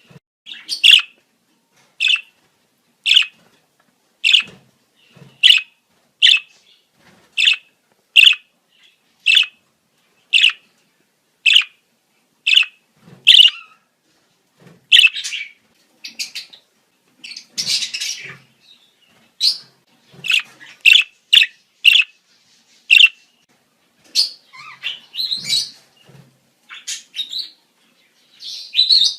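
Budgerigars calling in breeding season: sharp, high single chirps about once a second, giving way about halfway through to a quicker, more varied chattering warble.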